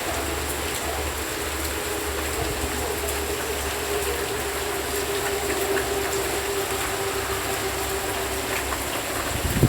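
Steady rain falling, with a faint steady drone underneath.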